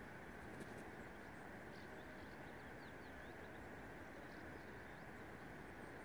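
Faint, short, high chirps of small birds, several in quick succession a couple of seconds in, over a steady outdoor background hiss.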